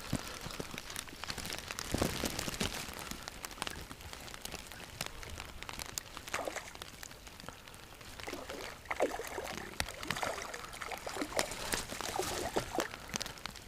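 Steady rain falling, with many small drops ticking close by and a few brief louder splashes or handling sounds scattered through.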